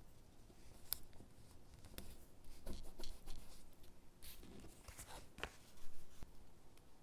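Close-up handling of paper and stickers: scattered light ticks with short rustling, scraping bursts as stickers are peeled and pressed onto paper gingerbread cutouts.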